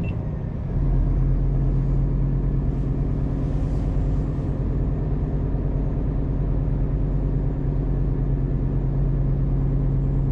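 Scania hybrid truck's diesel engine cutting in about a second in, then running at a steady pitch as a low drone heard from inside the cab, ending the quiet electric-only running.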